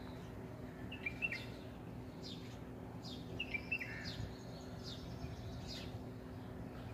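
Small birds chirping: short high downward chirps repeated every half second or so, with a few quicker twittering calls about a second in and again past the middle, over a steady low hum.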